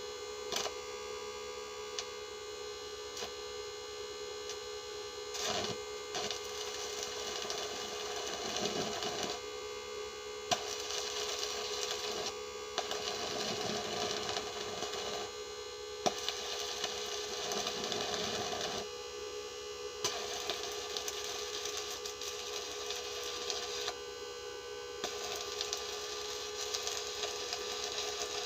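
Electric arc welding: the arc crackles and hisses in runs of a few seconds at a time, stopping and restarting several times, over a steady hum.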